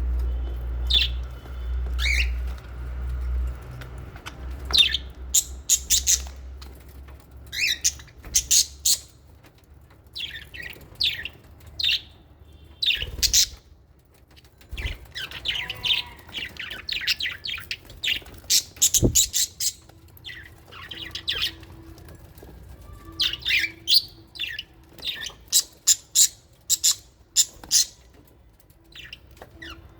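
Small pet parrots, lovebirds and budgerigars, chirping and squawking in quick irregular bursts, with several birds calling at once in places. A low rumble runs through the first few seconds, and there is a single soft knock about two-thirds of the way through.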